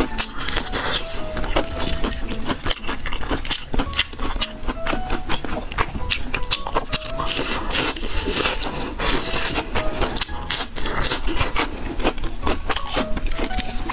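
Close-miked crunching and chewing of crispy battered fried pork, a dense, irregular run of crisp crackles as the coating breaks between the teeth.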